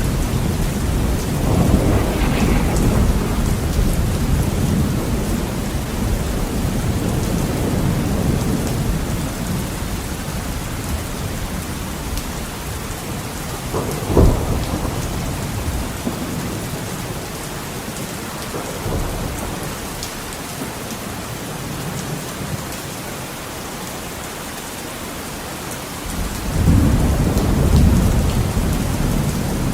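Heavy rain on a window, with a steady hiss and rolling thunder. An earlier rumble dies away, a sharp thunderclap comes about halfway through, and a new low rumble swells near the end.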